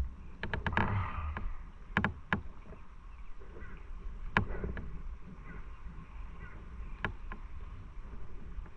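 Low rumble of a motorcycle on the move, with several sharp clicks or knocks scattered through it.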